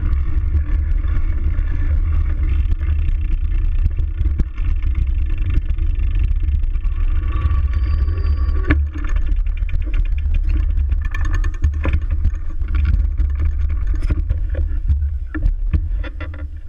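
Wind buffeting a bicycle-mounted GoPro's microphone while riding, a heavy steady rumble with rattles and clicks from the bike, and a brief high tone about halfway through. The rumble fades near the end.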